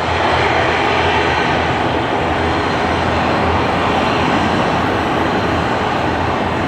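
Boeing 737-800 jet engines (CFM56-7B turbofans) running loudly and steadily, a broad jet roar with a thin high whine on top.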